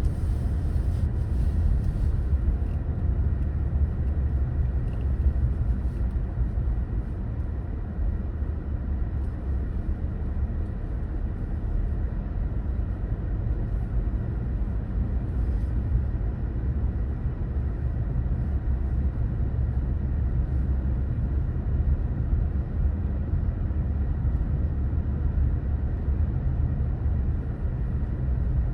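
A car in motion: steady low rumble of engine and road noise.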